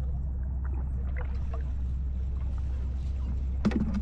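Steady low drone of a boat's engine running, with scattered faint ticks and one sharp knock near the end.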